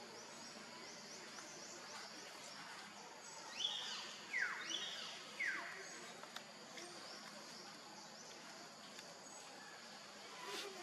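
Outdoor forest ambience with steady high chirping of insects or small birds. A bird gives four quick calls that sweep steeply downward, in two pairs about halfway through.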